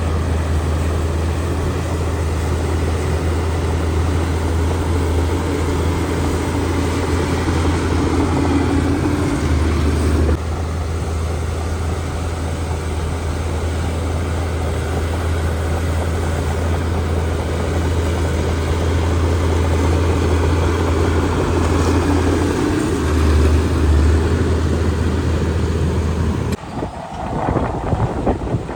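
Heavy diesel earthmoving machinery running with a steady low drone. The sound shifts abruptly about ten seconds in, and the engine drone cuts off near the end.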